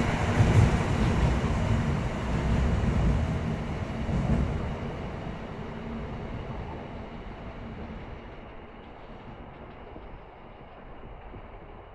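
Shinkansen train running past on the station tracks, a loud rumble with a low steady hum. The rumble fades away over about the first five seconds, leaving only faint background noise.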